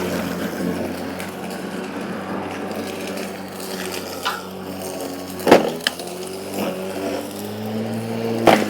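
Battery-powered electric lawn mower running with a steady motor hum while cutting wet grass, with two sharp cracks, one about halfway through and one near the end, as the blade strikes twigs.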